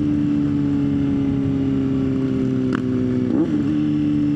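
Motorcycle engine running at a steady cruising speed over an even rush of road and wind noise. A short sharp click comes at about two and three-quarter seconds, and the engine note wobbles briefly about half a second later.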